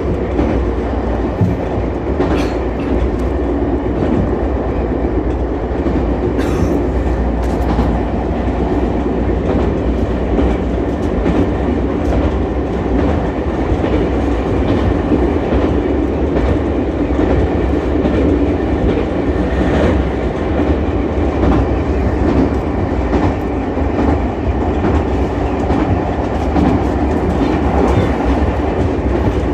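Ichibata Electric Railway 7000-series electric railcar running along the line, a steady rumble of wheels on rail with occasional sharp clacks.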